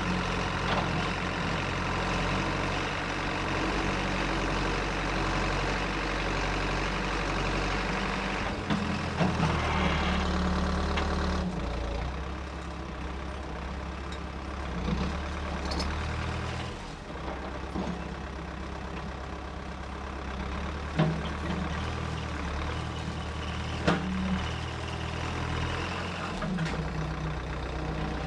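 A vehicle or machine engine running with a steady low hum whose pitch shifts up and down several times as the load or throttle changes. A few sharp knocks come in the second half.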